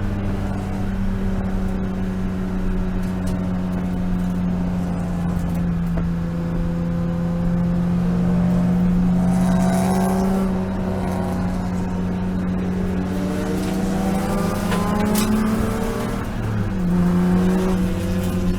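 BMW E36 M3 race car's straight-six engine running at fairly steady, moderate revs, with higher notes rising and falling around the middle and a change in the engine note with a rise in loudness near the end.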